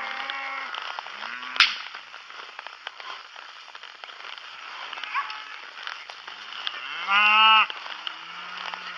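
Cattle mooing: a few short low moos at the start and one long, loud moo about seven seconds in. A single sharp crack comes about one and a half seconds in.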